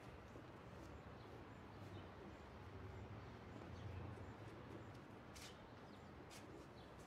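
Faint outdoor ambience of birds: a few short high chirps and soft pigeon cooing over a low steady hum.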